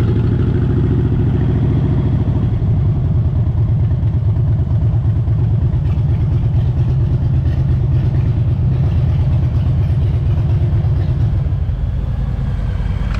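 Motorcycle engine running steadily under way, a low pulsing note.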